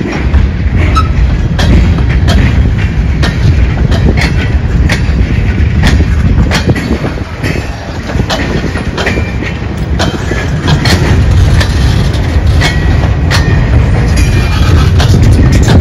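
Freight train of gondolas and covered hopper cars rolling past close by: a steady low rumble with frequent irregular clicks and clanks of the wheels over the rail joints.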